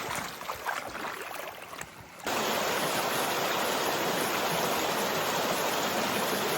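Feet wading and splashing through a shallow creek. About two seconds in, this gives way abruptly to a loud, steady rush of flowing creek water.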